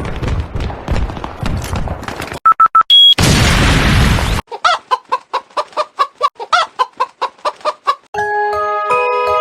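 A run of separate sound effects: rapid gunfire, a few short electronic beeps, a loud burst of noise, then a chicken clucking about four times a second. Near the end a chiming melody starts.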